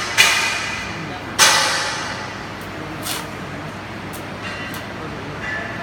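Metal clanging: two sharp strikes on steel in the first second and a half, each ringing and dying away over about a second, followed by fainter taps and clicks.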